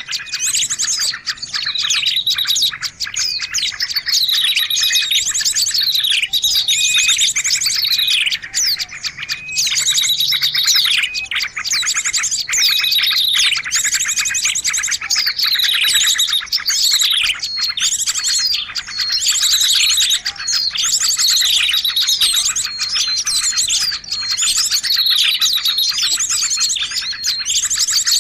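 Dense, unbroken chorus of many small songbirds chirping and trilling at once, high-pitched, with a falling note repeating about once a second: a layered bird-lure recording made to draw small birds in.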